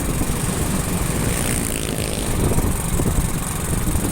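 Motorcycle engine running steadily while riding, under a constant rumble of wind and road noise, with a brief shift in tone near the middle.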